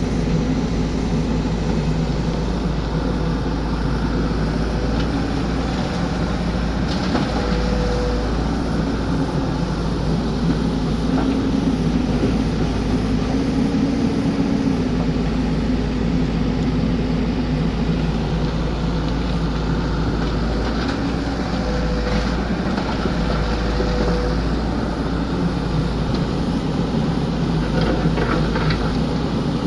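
XCMG excavator's diesel engine running steadily with a low rumble. Brief higher whines come through a few times.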